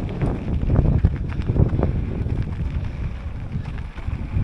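Wind buffeting the microphone of a camera on a moving bicycle, a low, gusty rumble.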